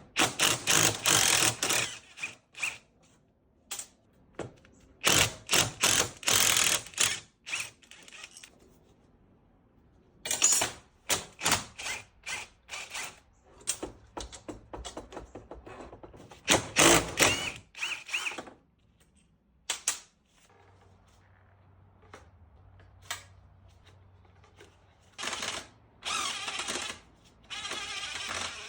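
Workshop tools at work on a motorcycle being taken apart: repeated bursts of rapid mechanical clattering, each lasting one to two seconds, with scattered single knocks in the quieter gaps between.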